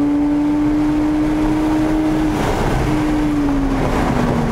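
Porsche 997 GT3's flat-six engine, with a Sharkwerks exhaust bypass, heard from inside the cabin at high revs on track. It holds a steady high note, is broken briefly by a burst of noise about halfway, then falls gradually in pitch near the end.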